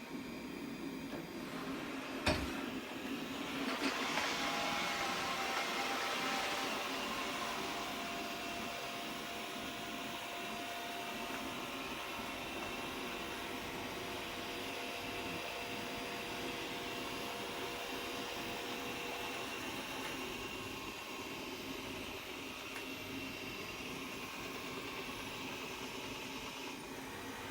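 Xiaomi robot vacuum cleaner running with a steady whirring hum, louder for a few seconds near the start, with a single click about two seconds in.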